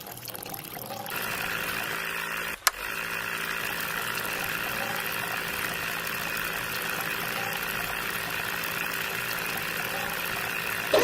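A small motor running steadily, with one sharp click about two and a half seconds in.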